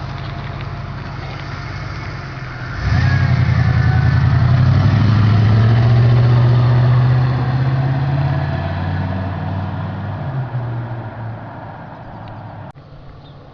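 Car exhaust note: the engine idles, then about three seconds in jumps sharply to a loud, steady higher-revving drone, holds for several seconds, and gradually dies back down.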